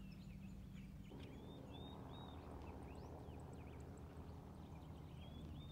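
Faint outdoor birdsong: many small birds giving short, quick chirps and twitters throughout, over a low steady rumble. About a second in, a soft rushing noise sets in underneath.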